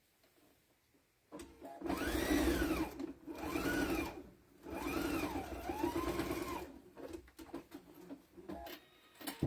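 Juki sewing machine stitching cross-hatch quilting lines through a potholder with a walking foot. It runs in three spells, the motor speeding up and slowing down in each, then stops near the middle, leaving a few light clicks of handling.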